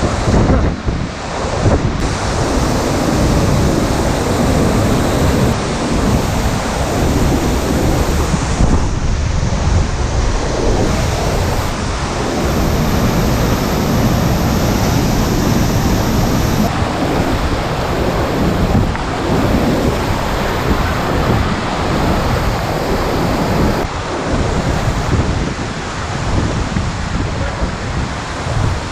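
Waterfall pouring: a loud, steady rush of falling water, with wind buffeting the microphone.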